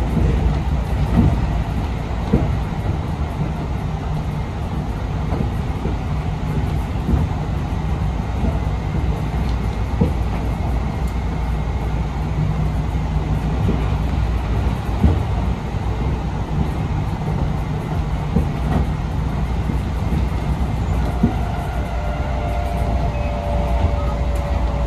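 Enshu Railway electric train running, heard from inside the front of the car: a steady low rumble with sharp wheel clicks over the rail every few seconds. A whine falls in pitch near the end.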